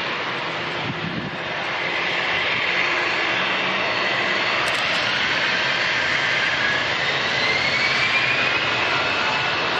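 Jet engines of a Boeing 787-9 Dreamliner running at the airport, a steady rushing roar with a whine over it that rises in pitch about seven seconds in.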